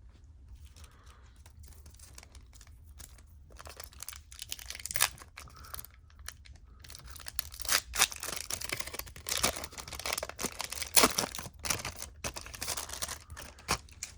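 A trading card pack's wrapper being torn open and crinkled. It starts about three and a half seconds in as a run of crackling, with several sharper, louder rips.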